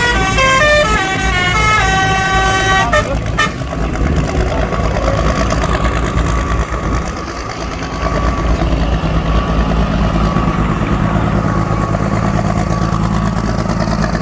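A horn sounds a short tune of stepped notes for about the first three seconds, then a heavy pulling-vehicle engine runs loudly and steadily.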